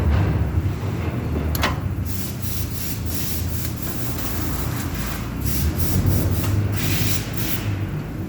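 A steady low machine drone, with a run of short scraping or hissing bursts from about two seconds in until near the end.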